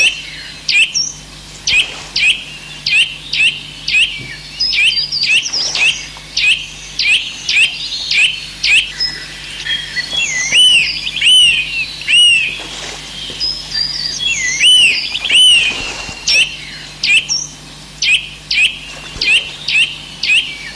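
Birdsong: one bird repeats a short high chirp about twice a second throughout. Twice around the middle it is joined by a different, looping call. A faint low steady hum runs underneath.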